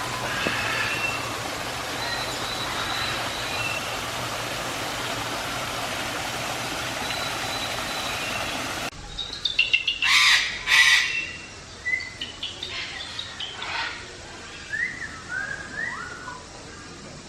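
A steady rushing noise for about the first half. After that come two loud, harsh parrot squawks, then a run of short chirping and whistling calls from the aviary's parrots.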